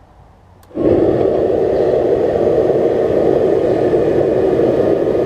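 An air blower switches on about a second in and runs steadily, forcing air up through the burning charcoal in a paint-can furnace.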